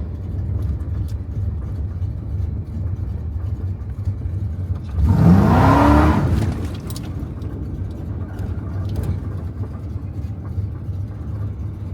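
Car engine idling with a steady low rumble, given one quick rev about five seconds in that rises in pitch and falls back to idle.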